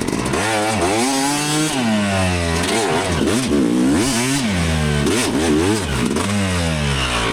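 Dirt bike engine revving hard, its pitch climbing and dropping again and again as the throttle is worked through snow and slush.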